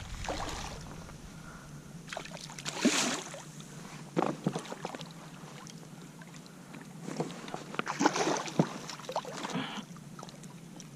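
Small splashes and light knocks of water and gear against a plastic fishing kayak's hull, coming at irregular intervals over a faint steady background.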